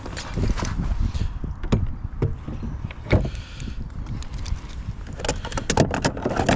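Scattered knocks, clicks and rattles of handling on a kayak, over a low rumble of wind and water.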